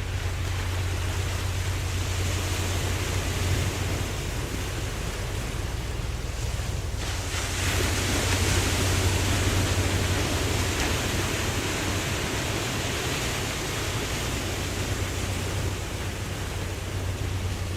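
Ocean waves washing, a steady hiss of surf over a constant low hum. About seven seconds in, a louder, brighter wash swells up and carries on.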